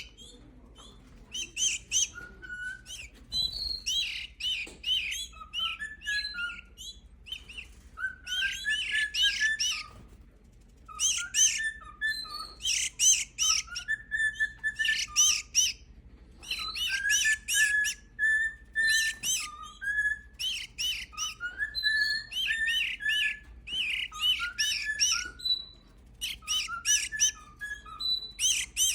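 Five-week-old canaries chirping in bursts of rapid, repeated high notes, with short pauses between the bursts.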